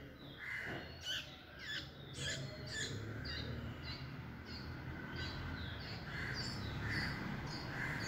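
Small birds chirping at a nest during a feeding visit: varied sweeping chirps at first, settling after about three seconds into an even run of short high chirps, two or three a second, over a low background rumble.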